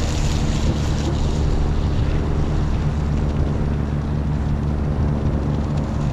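An engine running steadily at idle, with wind on the microphone and water noise.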